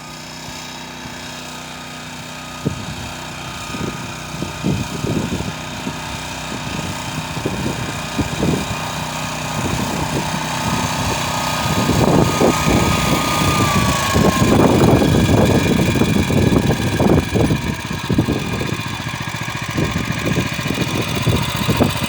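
Motor Sich walk-behind tractor engine running steadily, with irregular knocks and clatter. It gets louder about halfway through.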